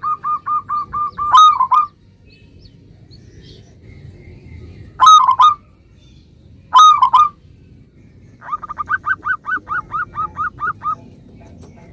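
Zebra dove (local perkutut) singing: quick runs of short, evenly spaced cooing notes, about six a second, broken by three louder, harsher notes around a second and a half, five and seven seconds in.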